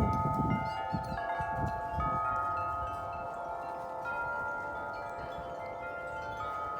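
Several large tuned wind chimes ringing in strong wind: long, overlapping bell-like tones, with new strikes coming in every second or so, the loudest right at the start.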